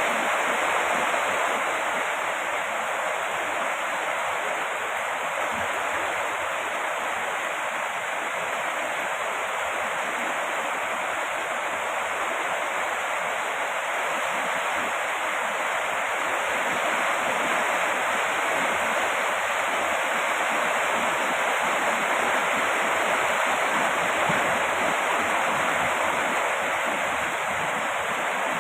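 Steady heavy rain falling: an even, unbroken hiss with no single drops standing out.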